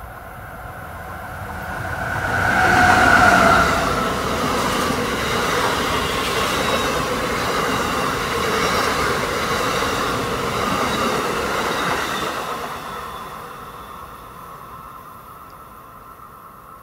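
Amtrak Northeast Regional passenger train, hauled by an electric locomotive, passing close at speed. It builds to its loudest about three seconds in as the locomotive goes by with a whine that drops in pitch, then comes the steady rush of the passenger cars, fading away after about twelve seconds.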